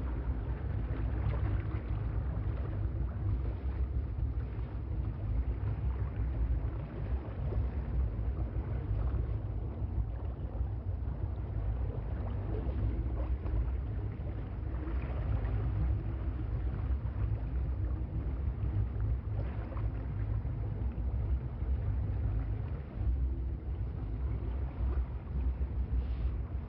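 Boat engine running steadily at low trolling speed, a constant low rumble with a faint steady hum above it.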